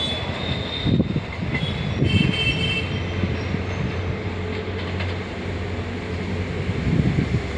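Passenger train rolling past, its wheels clacking irregularly over rail joints above a steady low hum, with faint high wheel squeal in the first few seconds.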